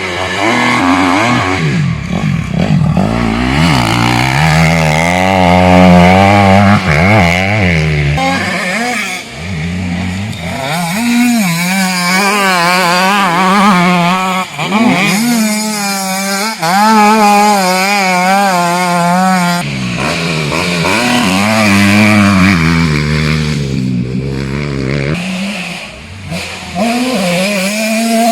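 Motocross dirt bikes running on the track, their engines revving up and dropping off over and over, with several engine notes overlapping.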